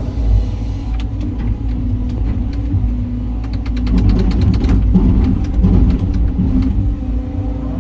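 Caterpillar 323 excavator's diesel engine running steadily under working load, with a quick run of sharp clicks in the middle.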